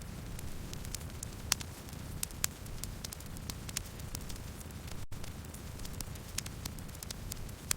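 Campfire burning: a steady low rumble of flames with wood crackling and popping in irregular, sharp snaps several times a second. There is a split-second dropout about five seconds in.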